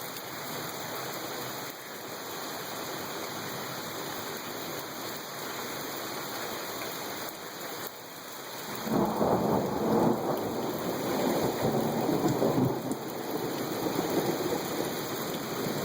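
Steady rain hissing, then about nine seconds in a loud rumble of thunder breaks in and rolls on for several seconds over the rain.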